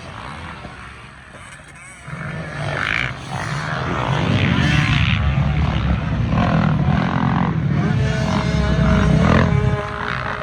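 Dirt bike and ATV racing engines running and revving, growing louder about two seconds in.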